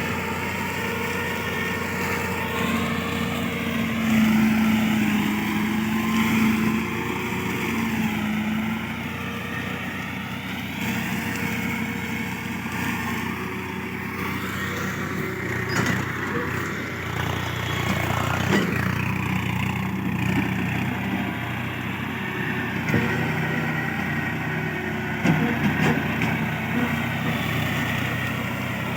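Tractor running a PTO mulcher through grass and brush. The engine drones steadily, its pitch wavering as the load changes, with a few sharp knocks in the second half.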